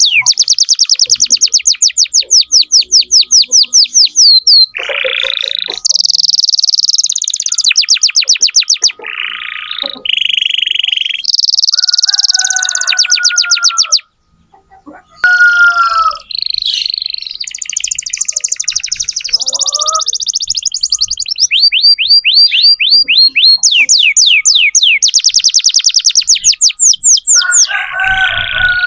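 Domestic canary singing a long, loud song of rapid trills: each phrase is a quick run of identical repeated notes, changing from phrase to phrase, with a short break about halfway through.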